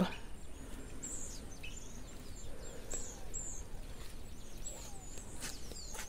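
Small birds chirping faintly: a run of short, high-pitched chirps, each dropping in pitch, repeated over and over above a faint low rumble.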